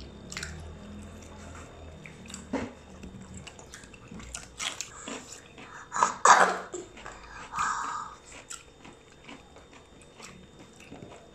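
Two people chewing and biting food eaten with their hands, a scatter of short crunching clicks and mouth sounds, the loudest a little after halfway.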